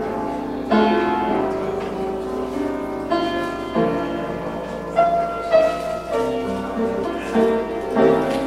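Keyboard instrumental music: slow, held chords that change every second or so.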